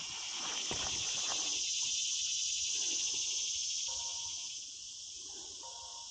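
Insects singing in a steady, high-pitched chorus that swells over the first two seconds and eases off about four and a half seconds in.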